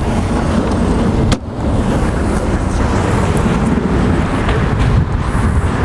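Steady road-traffic noise, with one sharp click about a second and a half in.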